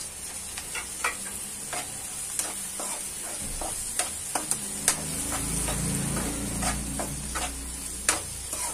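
Onions, green chilli and boiled peas sizzling in hot oil in a non-stick kadhai while a metal slotted spatula stirs them, with frequent sharp scrapes and taps of the spatula against the pan over a steady hiss.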